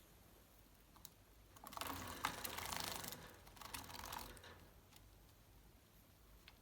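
Java sparrows moving about, making a short run of clicks and rustling that starts about two seconds in and eases off by the middle.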